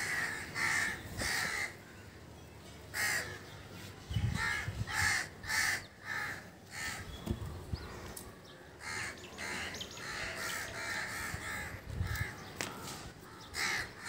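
Harsh bird calls, caws repeated in quick runs of two or three, with a few low thuds of handling in between.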